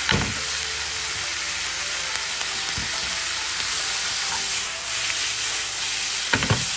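Sliced green peppers and pork sizzling steadily in a hot frying pan as they are stir-fried, with a few knocks near the start and again near the end.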